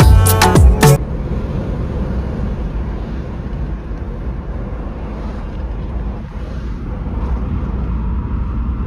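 Music cuts off about a second in. It gives way to a steady low rumble of a moving vehicle with wind buffeting the microphone.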